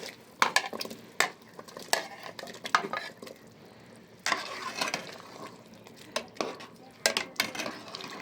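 Metal utensil stirring in a cooking pot and knocking against its sides, with sharp knocks roughly once every 0.8 s. About four seconds in there is a stretch of hissing, and near the end a few quicker knocks.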